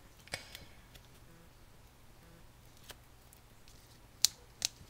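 A few sharp clicks and taps from paper and card pieces being handled on a craft desk, the loudest two close together near the end.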